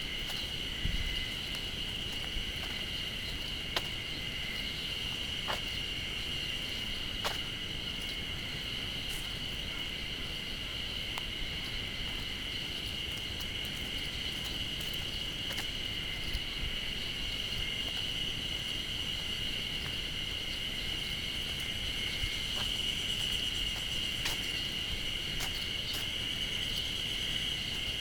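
A loud, steady chorus of insects making one continuous high drone without pause. The walker takes the singers for cicadas.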